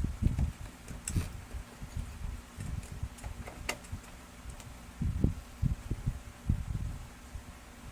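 Handling noise from work on a laser printer's plastic parts: irregular low thumps and bumps with a few sharp clicks.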